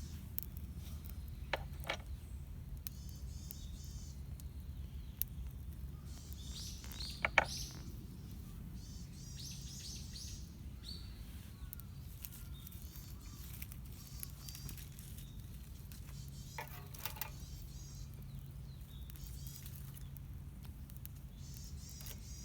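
Small birds chirping off and on, with a few sharp clicks or snaps and a low steady hum underneath.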